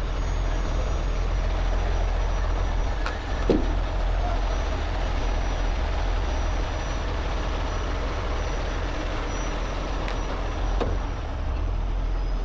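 Heavy truck diesel engine running steadily with a deep rumble, with a few short clanks or knocks, one around three and a half seconds in and another near the end.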